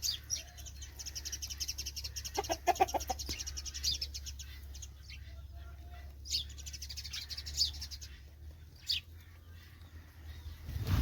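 Small birds chirping: a fast, high trill in the first few seconds, then several sharp single chirps that drop in pitch. About two and a half seconds in, a chicken clucks briefly. A low steady hum runs underneath.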